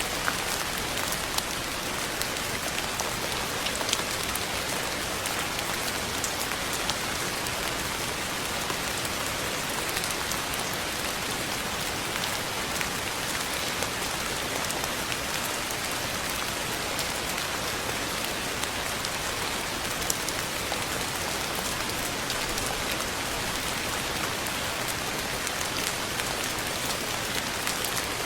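Steady rain falling, a continuous even hiss of rain with many small drop ticks and no change in strength.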